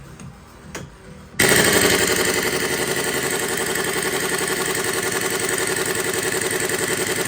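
Impact wrench hammering steadily on a crankshaft pulley bolt, starting abruptly about a second and a half in with a fast, even rattle.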